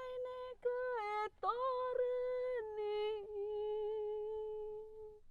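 A single high voice singing a slow unaccompanied melody, holding notes and sliding up or down between them, then a long held note that fades away near the end.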